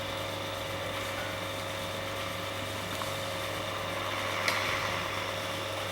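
Small motor-driven friction test rig, a bearing running against a roller, turning over unloaded with a steady hum. There is a faint tick about four and a half seconds in.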